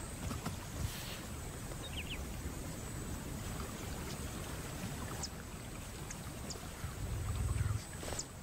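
Water sloshing and splashing as lions wade through shallow floodwater, heavier and louder about seven seconds in. A few faint high chirps sound over it.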